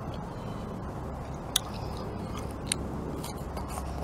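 Someone chewing raw onion: a few sharp, crisp crunches, two of them loud, over a steady low hum.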